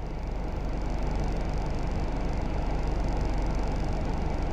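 Steady low hum of a car idling, with no door slam.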